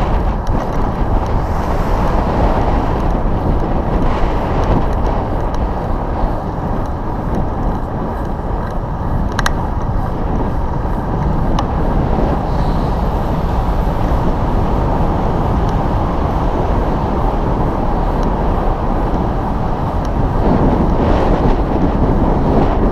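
Wind buffeting the camera's microphone as a loud, steady rumble, mixed with passing road traffic, with a single sharp click about nine seconds in.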